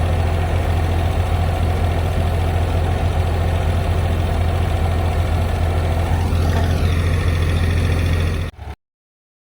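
Ford 3400 industrial tractor's engine idling steadily, with a brief whine that rises and falls about six and a half seconds in. The sound cuts off abruptly near the end.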